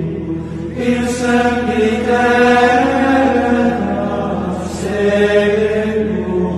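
Latin plainchant sung in Gregorian style, voices holding long notes that step slowly from pitch to pitch.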